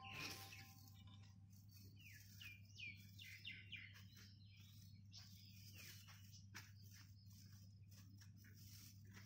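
Near silence with faint bird chirps: a quick run of short, downward-sweeping chirps a couple of seconds in, then a few scattered ones, over a faint steady low hum.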